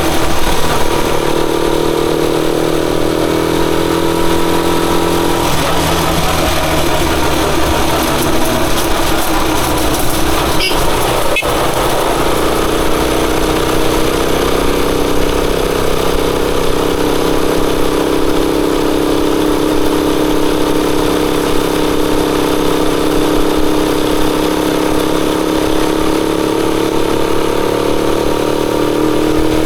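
Rusi Chariot 175 motorcycle engine running steadily while riding, with a slight dip and recovery in pitch near the middle. There is a single sharp click about eleven seconds in.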